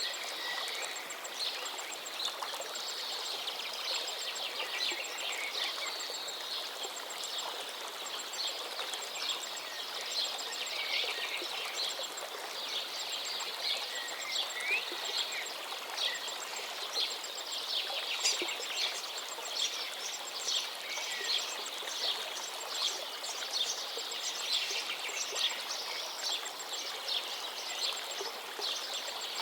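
A forest river flowing steadily, with songbirds singing over it in quick chirps and trills.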